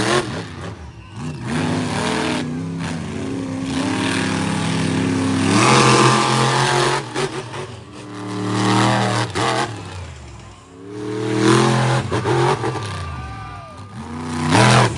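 Monster truck engine revving hard over and over, its pitch climbing and dropping several times as the throttle is worked on and off.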